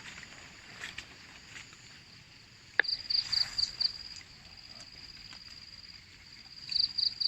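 An insect chirping outdoors in a high-pitched pulsed trill, about five pulses a second, in two spells: one near the middle and one starting near the end. A single sharp click just before the first spell is the loudest sound.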